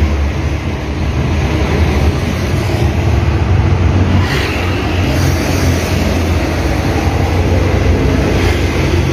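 Car engine running steadily under an open hood, a low hum under a rushing hiss, while the radiator leaks coolant and steams.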